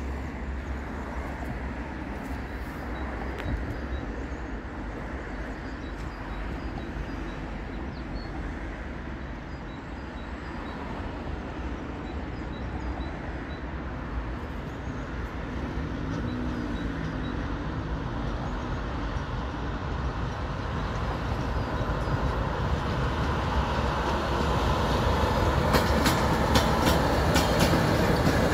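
Škoda 55E1 (ZSSK class 350) electric locomotive hauling an express train out of the station, a steady low rumble that grows steadily louder as the train draws nearer. Near the end the wheels click over rail joints.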